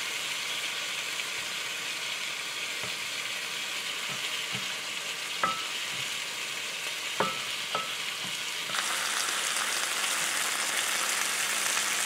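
Morels sizzling in coconut oil and melting butter in a frying pan while a spatula stirs them, knocking against the pan three times with a short ring around the middle. Near the end, a louder sizzle as elk steaks sear in a cast iron pan.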